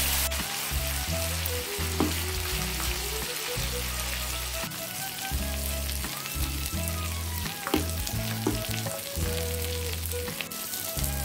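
Marinated chicken pieces sizzling in hot oil in a nonstick kadai, with a wooden spatula scraping and knocking against the pan a few times. Soft background music with held low notes plays underneath.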